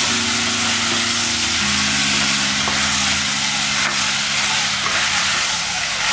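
Sprouted black chickpeas, tomato and spices sizzling in hot oil in an aluminium pressure cooker while a spatula stirs them: a steady frying hiss with the stirring of the spatula through the pot.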